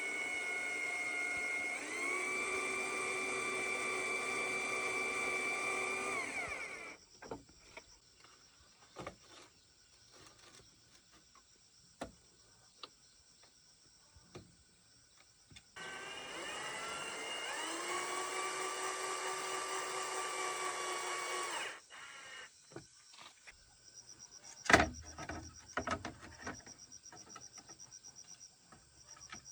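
Cordless drill running in two spells of about six seconds each; each time its motor speeds up, holds a steady whine, then stops. Between the spells come small clicks and knocks, with one sharp knock near the end.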